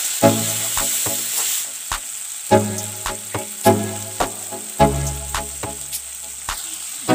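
Onions, tomatoes and spices sizzling in hot oil in a steel kadhai, with a steady hiss and frequent clicks of a spoon stirring and scraping against the pan.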